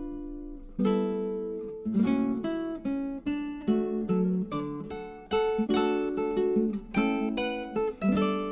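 Background music: acoustic guitar playing plucked chords and notes in a slow, even rhythm.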